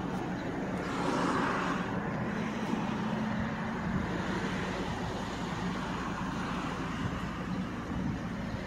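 A car engine running steadily at idle, a low even hum with light traffic noise and no revving.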